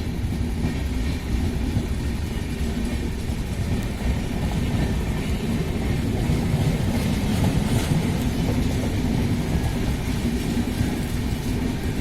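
Indian train running along the track: a steady low rumble of wheels and carriages with no clear breaks.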